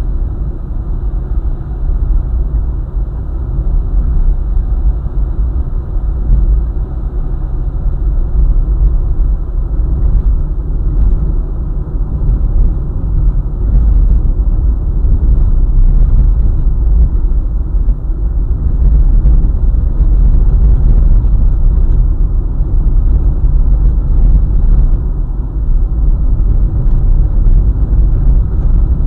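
Car driving along a highway: a loud, steady, low rumble of engine and road noise that grows slightly louder as the drive goes on.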